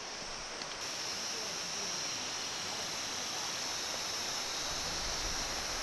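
Steady rush of flowing stream water, a little louder from about a second in.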